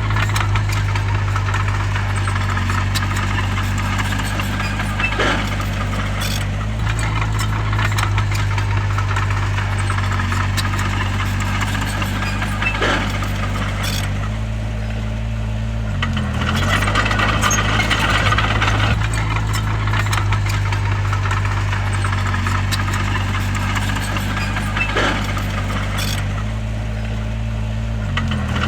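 Crawler bulldozer's diesel engine running steadily under work, with clattering, rattling tracks and scattered sharp knocks. The engine pitch dips briefly and recovers about halfway through and again near the end.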